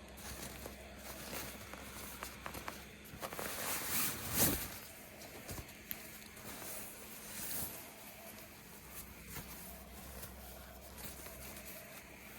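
Handling noises: rustling with scattered light clicks and knocks, loudest about four seconds in.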